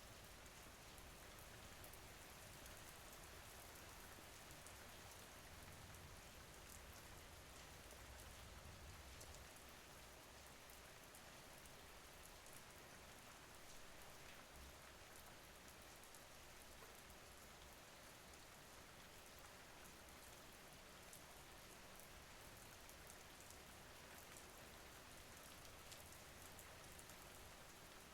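Faint steady rain: an even hiss with scattered small drop ticks.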